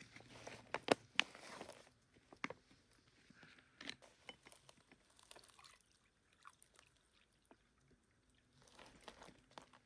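Crunching and rustling with several sharp clicks and snaps, loudest in the first two seconds, then scattered clicks and another stretch of rustling near the end.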